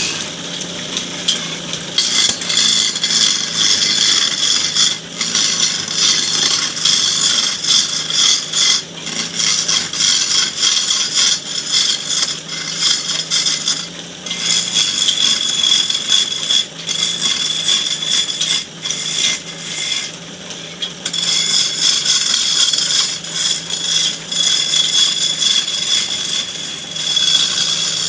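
A hand tool scraping and cutting wood in continuous passes while a charpai leg is shaped, over a steady low hum, with short breaks about 14 and 20 seconds in.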